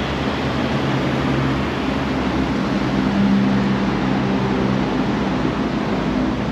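Steady mechanical hum and rushing background noise, with a few low steady tones and no distinct events.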